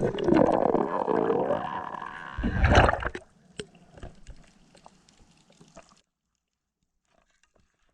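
Water sloshing and gurgling, loudest in the first three seconds with a heavier surge near the end of that stretch, then a few faint ticks before it cuts off suddenly.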